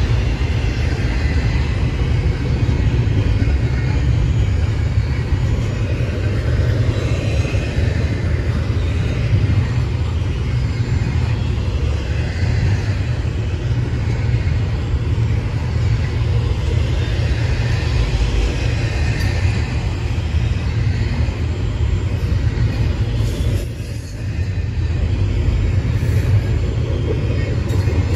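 Intermodal freight train's cars rolling past at speed: a steady, loud rumble of steel wheels on the rails, briefly dipping about 24 seconds in.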